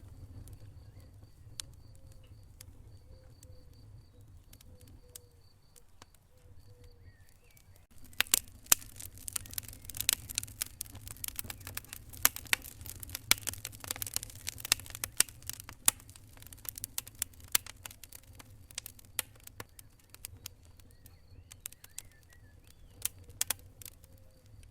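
Wood fire in a fireplace crackling: only a few pops at first, then about a third of the way in a long run of dense, sharp crackles and snaps begins and gradually thins out, over a low steady rumble.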